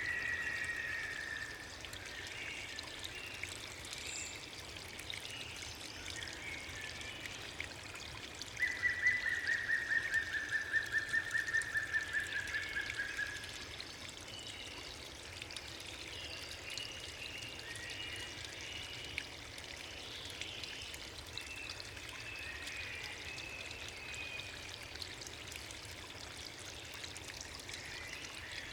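Steady rush of flowing water. About a third of the way in, a bird gives a rapid trill lasting about five seconds, falling slightly in pitch, with fainter short bird calls after it.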